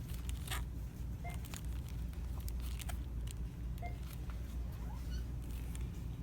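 Shop ambience: a steady low hum with scattered sharp clicks and taps, and a faint short beep that comes back about every two and a half seconds.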